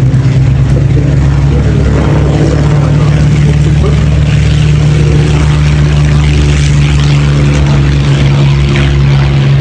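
Aircraft engine noise: a loud, steady drone with no rise or fall.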